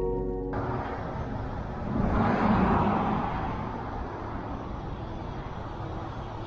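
Outdoor background noise with a vehicle passing by, swelling loudest about two to three seconds in and then fading to a steady rumble. Background music cuts off about half a second in.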